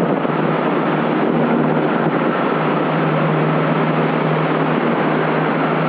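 Steady drone of a Cessna 172's engine and propeller heard inside the cabin, an even noise over a constant low hum.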